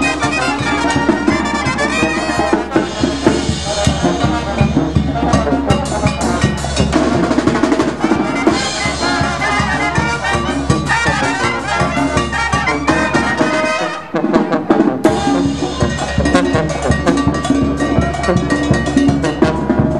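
Mexican banda de viento (brass band) playing lively music: trumpets and trombones over drums and percussion. The bass drops out briefly about fourteen seconds in.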